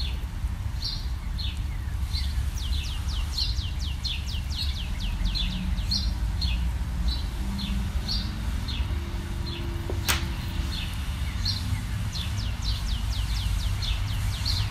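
A small bird chirping over and over, with a quick run of falling chirps a few seconds in. There is one sharp click about ten seconds in, and a steady low hum underneath.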